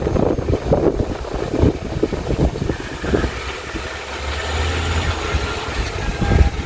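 A vehicle running, with irregular low rumbling buffets in the first few seconds, settling into a steady low engine hum about halfway through.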